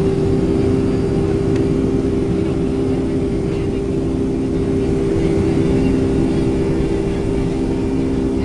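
Boeing 757-200's Pratt & Whitney turbofans at high takeoff thrust, heard inside the cabin over the wing: a steady rumble with two held tones.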